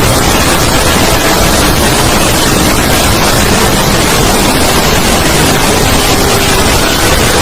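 Loud, steady, harsh static-like noise with faint wavering tones buried in it: cartoon soundtrack sped up and distorted until speech and music can no longer be made out.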